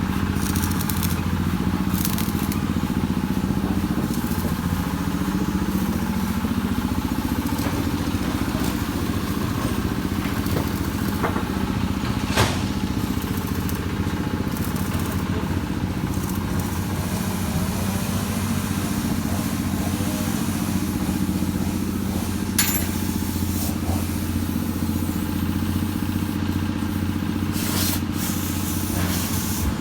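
An engine running steadily at an even speed, with a couple of sharp knocks partway through.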